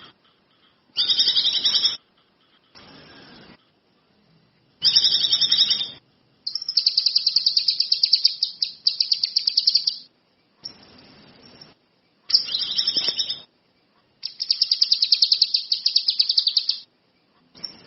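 A caged songbird singing in repeated bursts of high, chirping song, including two longer runs of fast, rapidly pulsing chatter, with short pauses between bursts.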